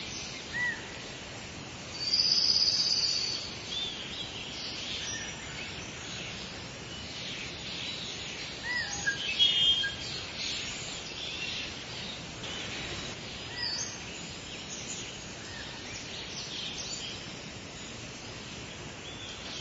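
Several songbirds chirping and calling over a steady outdoor hiss, with short whistled notes scattered throughout. A loud high trill comes about two seconds in, and a quick burst of chirps comes near the middle.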